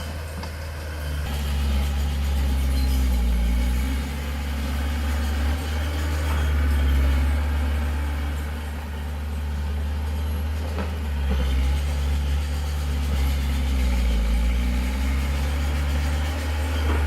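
Heavy diesel engine of earthmoving machinery running under load, its pitch and loudness repeatedly dropping and rising again as it is revved and eased off.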